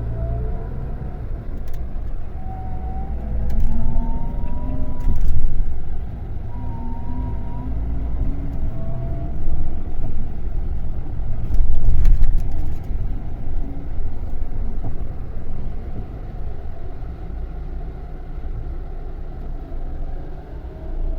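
Scania K400 diesel bus engine running under way with a heavy low rumble. A whine rises in pitch several times as it pulls, with a few short knocks in between.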